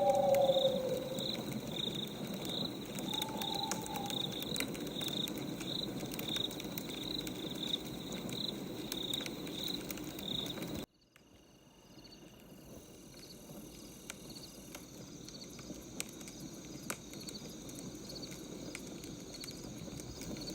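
Night ambience: a cricket chirping in steady high pulses about twice a second, with an owl hooting near the start and again about three and a half seconds in, over scattered soft crackles of a wood fire. A little before halfway the sound cuts out abruptly, then fades back in with the cricket chirps.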